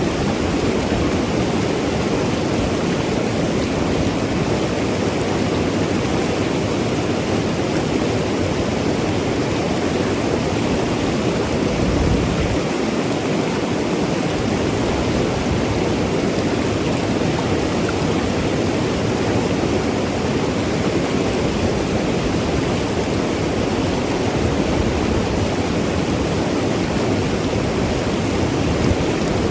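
Mountain river rushing and gurgling over rocks: a steady, dense water noise.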